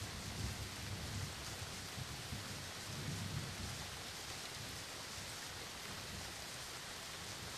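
Steady rain falling, with a low rumble of distant thunder that dies away about halfway through.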